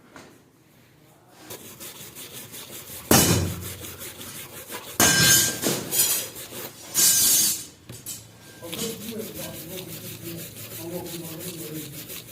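Hand scraping and sanding strokes on a rusty steel knife blade, quick and back-and-forth, with three louder scrapes in the middle.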